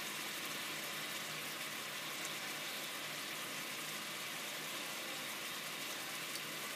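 Shrimp and onions frying in a skillet, a steady, even sizzle.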